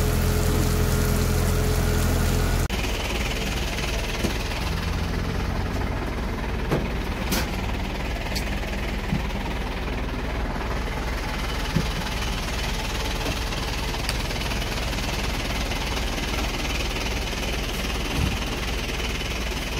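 A fire engine's motor running steadily. The drone drops abruptly to a lower, quieter note a little under 3 s in, then carries on with a few scattered clicks.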